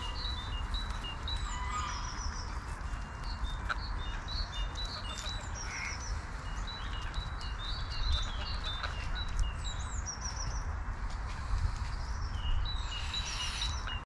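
Small birds chirping in short, quick repeated phrases, with a steady low rumble underneath.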